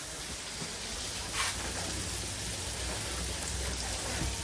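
Steady sizzling hiss of food frying in a food-truck kitchen, over a low steady hum, with a brief louder hiss about a second and a half in.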